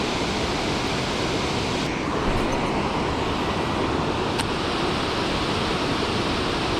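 Steady rush of water pouring down from the dam, an even noise without pitch that holds level throughout.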